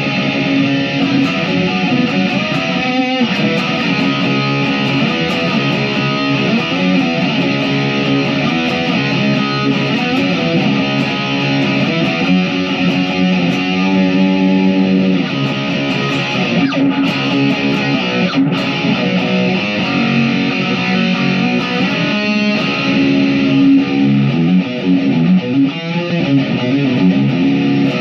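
Chapman SAR63 electric guitar played through an amplifier, a continuous run of chords and riffs.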